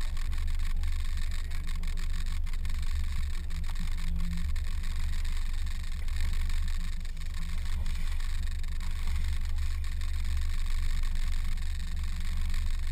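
Fishing boat's motor running steadily on the lake: a continuous low rumble with a faint hum and a steady hiss over it.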